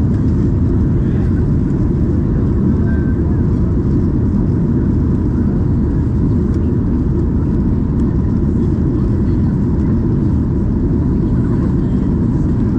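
Steady low roar of cabin noise inside a Boeing 737-800 airliner in flight, from its engines and the rushing air, with a faint steady tone above it.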